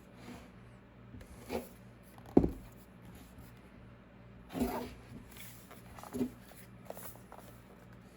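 Intermittent handling of a laptop's packaging during unboxing: scattered rustles and soft knocks, with one sharp knock about two and a half seconds in.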